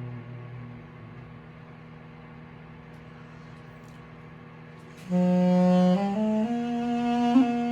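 Microwave oven humming steadily as a drone; about five seconds in, an Armenian duduk comes in loudly with a low held note, then steps up twice to settle on a note matching the microwave's hum.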